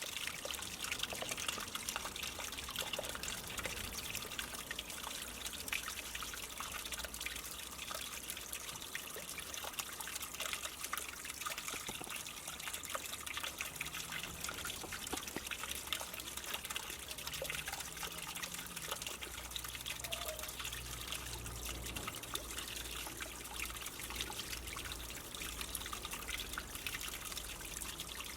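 Water spilling steadily over a small pre-formed waterfall spillway and splashing into a garden fish pond below.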